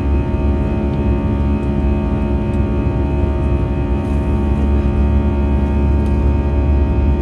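Steady drone inside the cabin of an Airbus A320-214 in flight: its CFM56-5B engines and the airflow make an unchanging roar, with a stack of steady tones on top of it.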